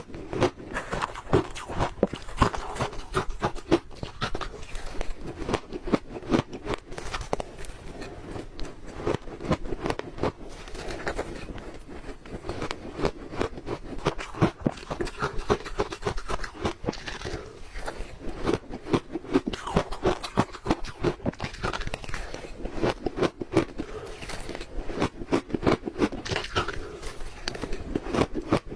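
Ice being chewed close to the microphone: a continuous run of sharp, crackly crunches, several a second.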